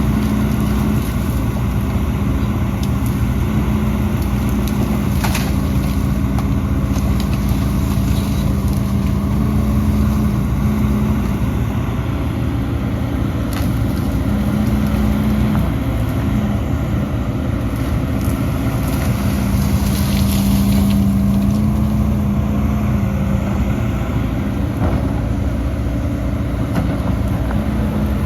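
Heavy diesel earthmoving machinery running steadily under load, a constant low drone with a few brief knocks and scrapes.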